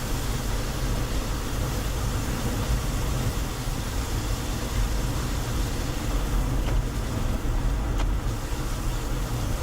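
Steady road and engine noise of a car being driven, heavy at the low end, with two faint ticks near the end.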